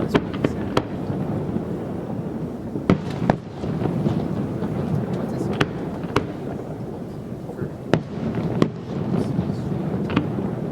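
Fireworks display: about a dozen sharp bangs and cracks of bursting shells, irregularly spaced a second or so apart, over a continuous low rumble.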